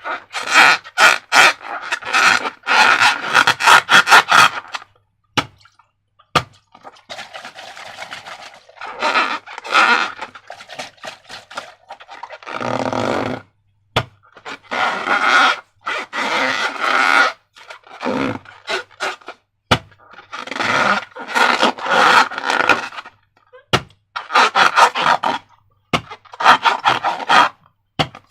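Slime being squished and worked by hand, in repeated bursts of wet crackling and clicking as trapped air pops, with a few single sharp clicks between the bursts.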